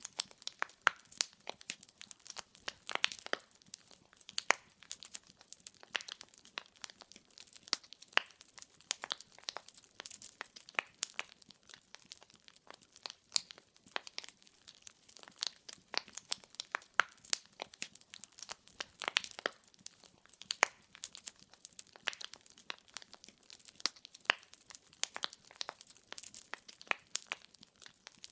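Firewood burning in a fireplace, crackling and popping in dense, irregular snaps over a faint hiss.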